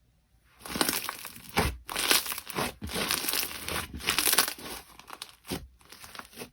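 Slime being squeezed and pressed by hand, giving a dense run of crackling and crunching that starts about half a second in and stops with one last burst near the end.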